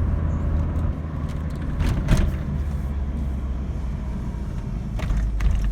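Saab 900 Commemorative Edition's turbocharged 2.0-litre four-cylinder engine pulling steadily at low speed in second gear, with tyre and road rumble, heard from inside the cabin; the engine is still cold. Two brief clicks come about two and five seconds in.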